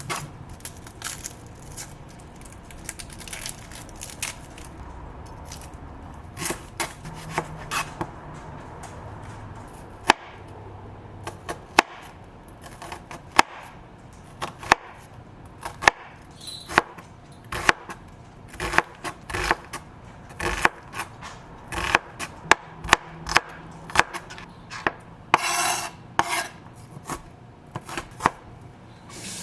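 Knife chopping food on a cutting board: separate sharp strikes, sparse at first and coming faster in the second half, with a brief rustling sound near the end.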